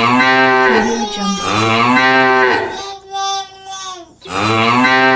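Cow mooing: three long, low moos with a shorter, fainter moo between the second and third.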